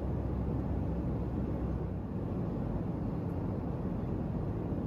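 Steady cabin noise inside a Boeing 737 airliner in flight: an even, low rumble of engines and airflow.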